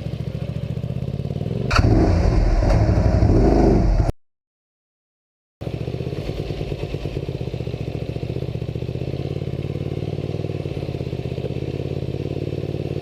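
Honda Spada 250 motorcycle's V-twin engine running steadily. It goes louder and rougher for about two seconds near the start, then cuts out completely for a second and a half and comes back running steadily.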